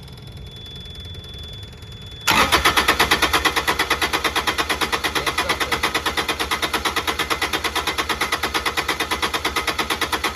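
Kubota D722 three-cylinder diesel cranked by its starter with the injector lines cracked open to bleed air, turning over in a fast, even chugging rhythm without firing. The cranking starts suddenly about two seconds in; before it, a faint steady high-pitched tone.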